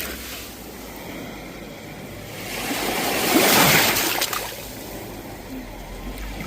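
Sea waves washing on the shore: a steady wash of surf, with one wave swelling and breaking about three seconds in, then ebbing away.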